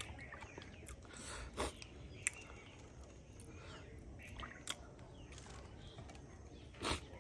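A person chewing a mouthful of rice and insects, eaten by hand, with a few short sharp mouth clicks; faint birds chirp in the background.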